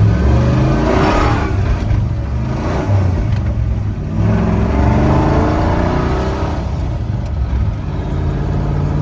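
Ford 351 V8 of a 1977 F-150 pickup driving under load, its engine note rising and falling a few times as it accelerates and eases off.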